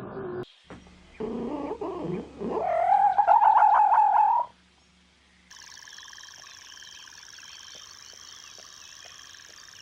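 A cat's drawn-out, wavering meow, loudest just before it stops about halfway through. Then a quieter, steady, high-pitched chorus of many faint chirps.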